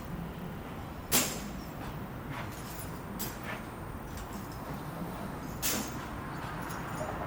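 Scaffolding being offloaded: sharp metal clangs of poles and fittings, a loud one about a second in and another near six seconds, with fainter knocks between, over a steady low rumble.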